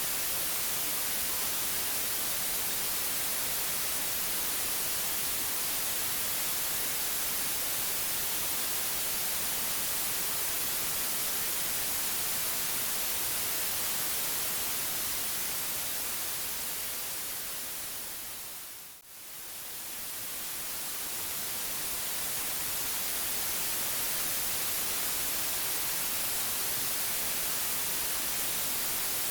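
Steady white noise hiss, brightest in the high frequencies. About two-thirds of the way through it fades down to almost nothing, then swells back up over a few seconds.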